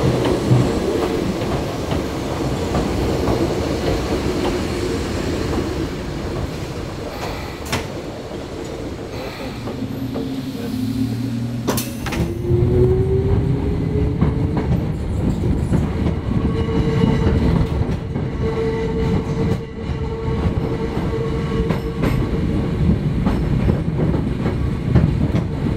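Hakone Tozan Railway electric train running on its descent, with wheels rumbling on the rails and a steady high tone over them. About halfway through there is a sharp click, followed by a tone rising in pitch.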